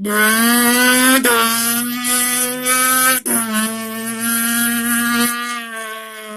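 A man imitating a car engine with his mouth, meant as a Nissan GTR: a loud, steady buzzing drone that holds one pitch, with two brief breaks about a second and three seconds in, like gear changes.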